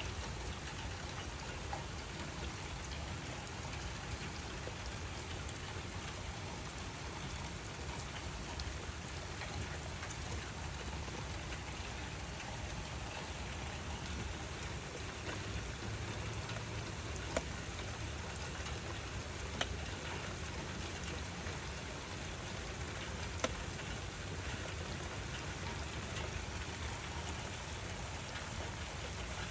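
Steady rain falling, an even hiss of drops with no letup, and a few louder single drop taps in the second half.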